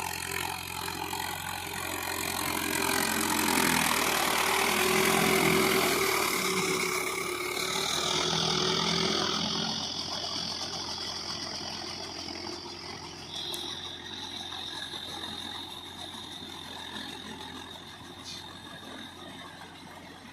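Mahindra Yuvo 415 tractor's four-cylinder diesel engine running under load, growing louder toward the middle and then fading away. A thin high steady whine sounds over it in the second half.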